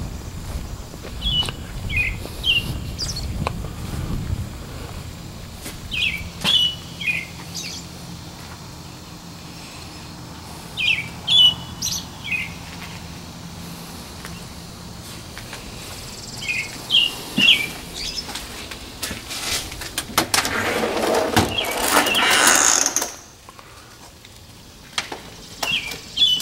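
A songbird chirping in short phrases of three or four notes, repeated every four to five seconds. About twenty seconds in, a loud rushing noise lasts around three seconds and then cuts off suddenly.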